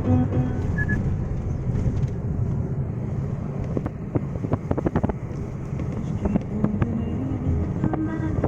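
Car driving, with a steady low road and engine rumble. A cluster of sharp clicks or knocks comes about halfway through, and radio music is heard briefly at the start and again near the end.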